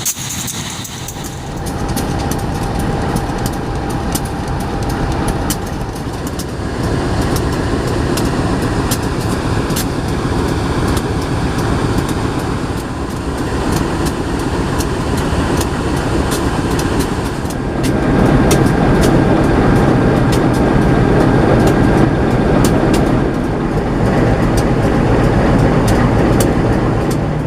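Passenger train running on the rails: a steady rumble with many sharp clicks and rattles from the wheels and carriage, growing louder about two-thirds of the way through.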